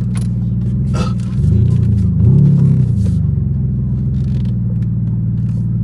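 Infiniti G35's V6 exhaust running with a steady drone, its pitch and level rising and falling twice between about a second and a half and three seconds in as it's given throttle, then settling back.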